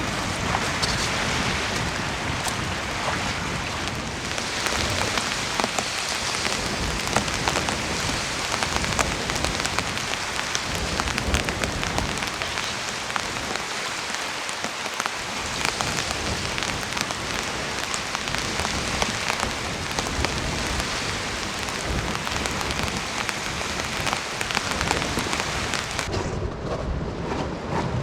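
Steady heavy rain, a dense hiss with many individual drops striking close by. About two seconds before the end the hiss suddenly thins and a lower rumble remains.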